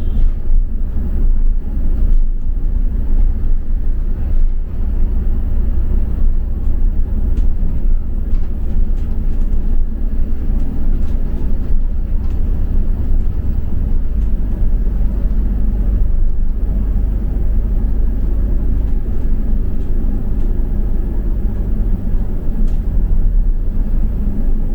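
A double-decker bus on the move, heard from inside the passenger cabin: a steady, deep rumble of engine and road noise.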